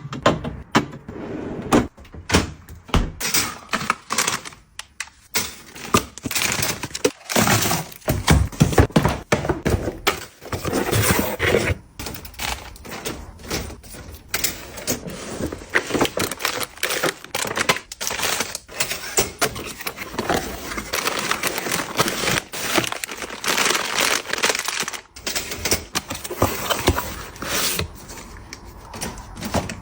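Packaging and items being handled and opened by hand: dense, irregular crackling and tapping with many quick clicks and knocks.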